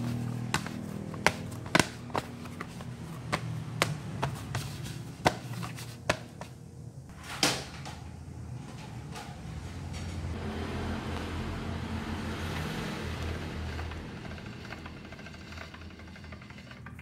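Wheat dough kneaded by hand in a plastic basin: irregular knocks and slaps against the basin, with one loud thump about seven seconds in. About ten seconds in, a steady rumbling whirr starts as an Ampia hand-cranked pasta machine rolls the dough flat.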